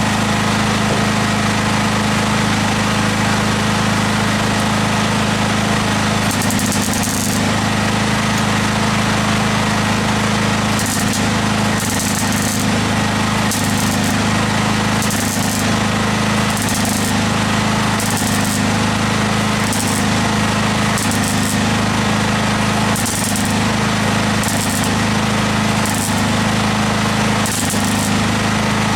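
MIG welder welding steel body panel, a steady electrical hum under a crackling sizzle, with short bursts of higher hiss repeating about every second and a half as the weld is laid in short stitches.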